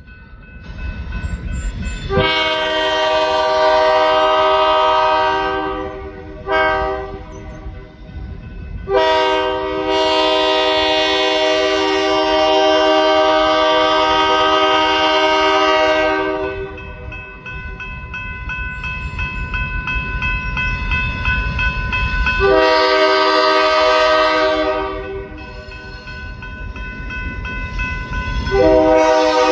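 Diesel locomotive air horn sounding a series of blasts: a long blast, a brief one, a very long blast, a softer held tone, then another long blast and one more starting near the end. A low rumble of the moving train runs underneath.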